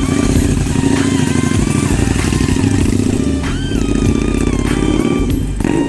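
Harley-Davidson V-Rod Muscle's 1250 cc V-twin running hard through a modified loud exhaust, a dense steady engine note. Music with a melody plays over it.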